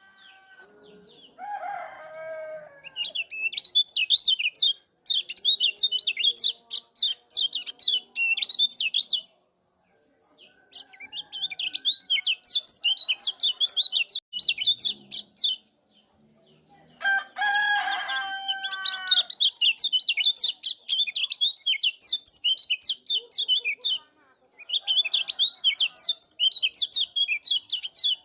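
Kecial kuning white-eye singing: fast runs of high chirping notes lasting a few seconds each, broken by short pauses. Twice, about 2 s and 18 s in, a lower call with falling pitch sounds under the song.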